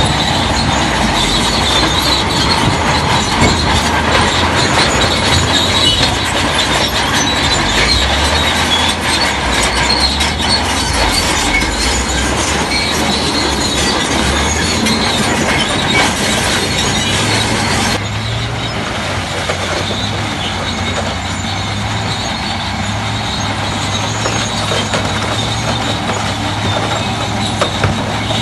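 Shantui crawler bulldozer at work: its engine runs steadily under the clanking and squealing of its steel tracks. About two-thirds of the way in the sound turns slightly quieter and duller, leaving a steadier low engine hum.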